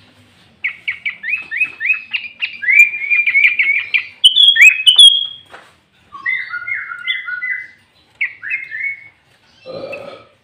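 Sooty-headed bulbul (kutilang) singing loudly: a fast run of short rising chirps, then two shorter warbled phrases, with a brief harsher, lower call near the end.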